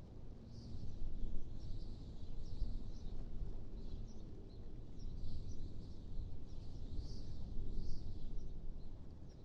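Wind blowing in gusts, a low rumble that swells and eases, with faint scattered bird chirps over it.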